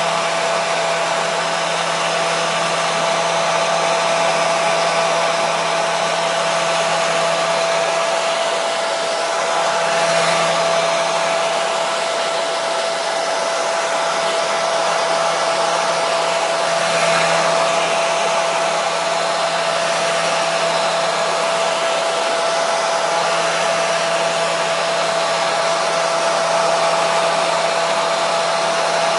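Hair dryer running steadily: a continuous rushing blow of air with a constant whine from its motor and fan, swelling slightly a couple of times.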